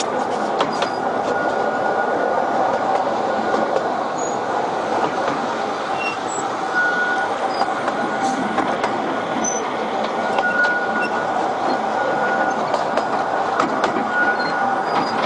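Narrow-gauge tourist train's open carriages running along the track, heard from aboard: a steady rattle and rumble of wheels on rails, with short high wheel squeals coming and going and scattered sharp clicks.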